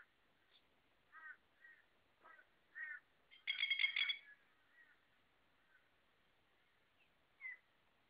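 Birds calling: a run of short calls, then one loud, harsh, rapidly pulsed call about three and a half seconds in, and a single short call near the end.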